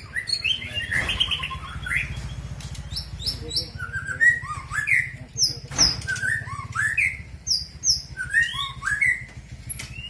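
Caged white-rumped shama (murai batu) singing: a run of varied, rapid whistled and chirped phrases, with a steady low hum underneath and two short knocks about a second and six seconds in.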